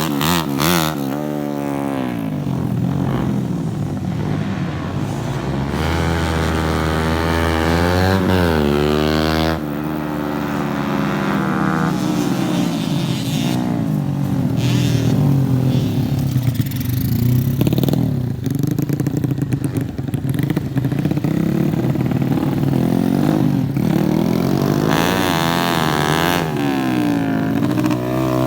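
Racing motorcycle engines revving hard, their pitch repeatedly rising and falling as the bikes accelerate and back off.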